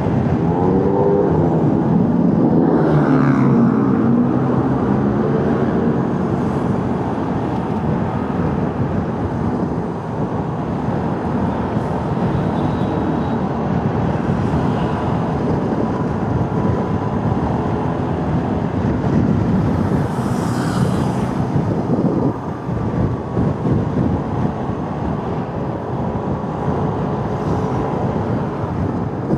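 Motorcycle engine running under way, its pitch rising and falling with the throttle in the first few seconds and again about twenty seconds in, over steady road and wind noise.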